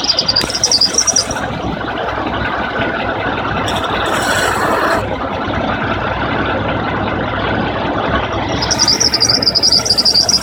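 Jeep AMC 242 4.0-litre inline-six engine running, with a rapid, high-pitched chirping squeak from the water pump pulley. The squeak stops after about a second and a half, leaving the engine alone, and comes back near the end.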